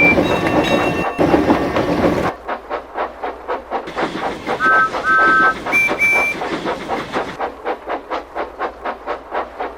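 Steam engine sound effects: steady chuffing at about three to four puffs a second, with a rush of steam over the first two seconds. Short whistle toots sound at the start, a lower two-note whistle sounds twice about five seconds in, and a high whistle sounds twice again about six seconds in.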